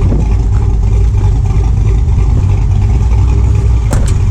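Engine of a show car or truck idling with a deep, steady exhaust rumble. A sharp click about four seconds in.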